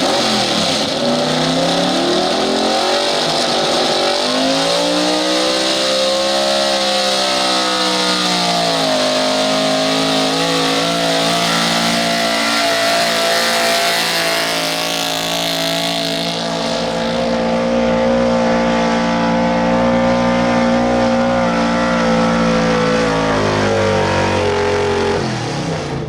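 Super street 4x4 pulling truck's engine at full throttle during a pull: the revs climb, dip and climb again, then hold high and steady for most of the run before dropping off near the end.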